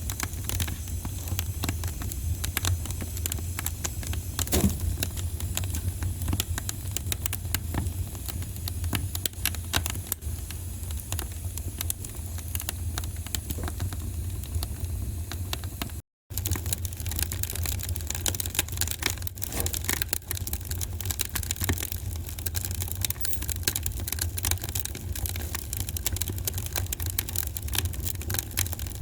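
Wood fire crackling in a fireplace: many small sharp pops and snaps over a steady low rumble. The sound cuts out for a moment about halfway through.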